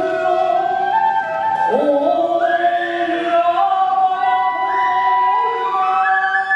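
Kagura music: a transverse bamboo flute melody with singing, moving in held notes with a few sliding pitch glides.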